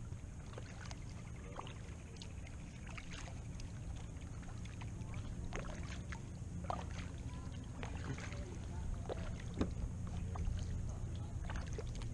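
A kayak being paddled through shallow water: scattered small splashes, drips and light knocks of the paddle over a low, steady rumble.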